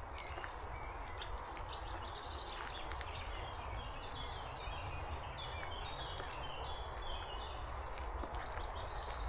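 Steady heavy rain with wind rumbling on the microphone. A songbird chirps repeatedly through it, busiest in the middle, and there are occasional footsteps.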